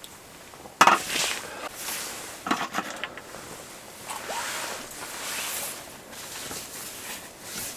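Handling noises: a sharp knock about a second in, then irregular rustling and scraping, like a zip or fabric being worked.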